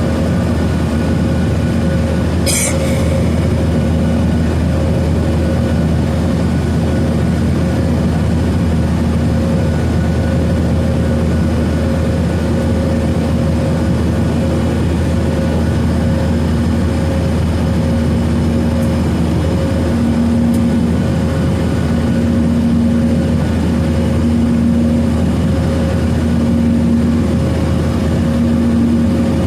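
Steady cabin noise inside a Boeing 737-900ER with its CFM56-7B turbofans running: a constant rushing roar under a low hum, with an engine tone that beats slowly in the last third. A brief rattle or click sounds about two seconds in.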